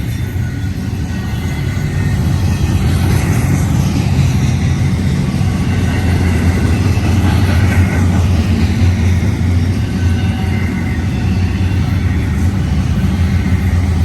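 Double-stack intermodal freight cars rolling past, a steady loud low rumble of steel wheels on rail.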